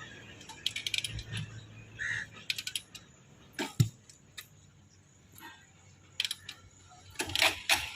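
Kick-starting a TVS Apache 180 motorcycle: the kick lever ratchets and clunks in several groups of sharp clicks, with one heavy knock about four seconds in. The engine does not catch.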